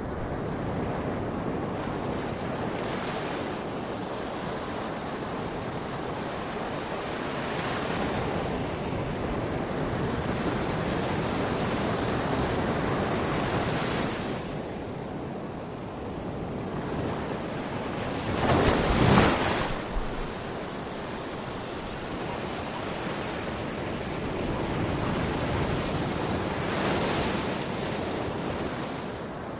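Sea waves breaking and washing on a beach: a continuous rushing surf that swells and eases every few seconds, with one louder surge about two-thirds of the way through.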